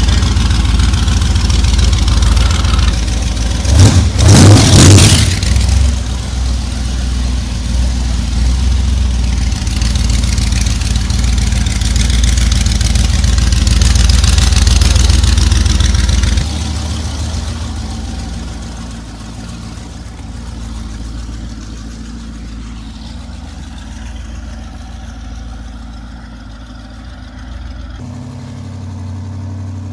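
V8 engine of a custom chopper trike running, with a short rev about four seconds in. After about sixteen seconds it drops to a much quieter, steady running sound.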